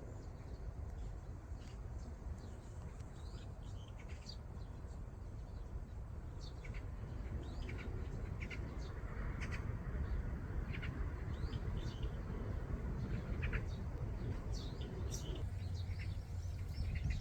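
Wild birds chirping now and then, short high calls scattered throughout and busier in the second half, over a low steady outdoor rumble.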